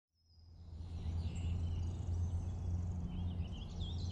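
Outdoor ambience fading in: birds chirping over a steady low hum, the chirps busiest near the end.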